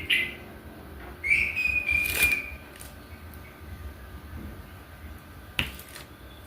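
Two sharp clicks of a diamond painting pen pressing resin drills onto the canvas, about two seconds in and again near five and a half seconds, with a short whistled note, like a bird's, just before the first click.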